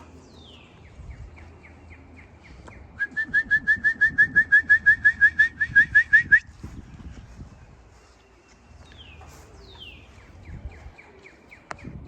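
A songbird singing: a falling whistled note followed by a quick series of short notes, then, about three seconds in, a loud run of about eighteen rising whistled notes lasting some three seconds, and the first phrase again near the end.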